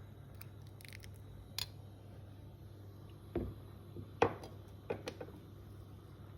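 A few scattered light knocks and clicks, the loudest about four seconds in, over a steady low hum.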